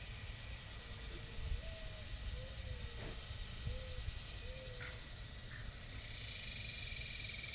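A few faint, short squeaky animal calls, each a brief thin tone that bends in pitch, over a steady hiss and a low rumble.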